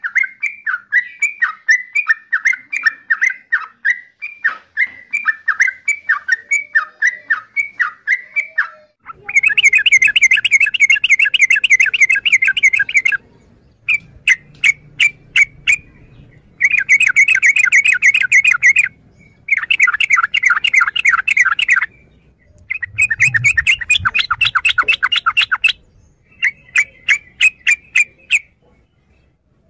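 Yellow-vented bulbul calling: a run of short repeated notes, about three a second, then, after an abrupt change about nine seconds in, bursts of rapid chattering song, each a couple of seconds long, with short pauses between.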